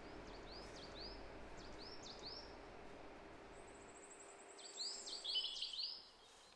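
Small birds chirping: a string of short repeated chirps, a quick high trill about three and a half seconds in, and a louder cluster of chirps near the end.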